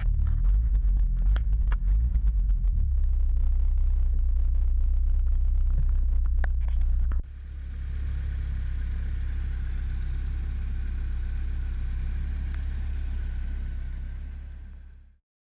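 Volvo 740 Turbo's 2.3-litre four-cylinder turbo engine idling steadily at about 1,000 rpm after a cold start. About seven seconds in the sound drops to a quieter, hissier idle, then fades out near the end.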